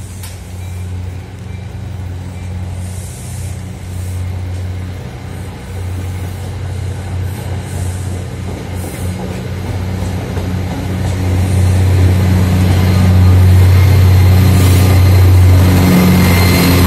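Commuter train passing along the platform: the rumble of the coaches with the steady low drone of a Metro-North F40PH diesel locomotive's engine, growing louder until the locomotive goes by over the last few seconds.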